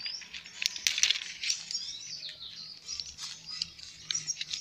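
Small birds chirping in quick, repeated short calls, with a few sharp clicks about a second in.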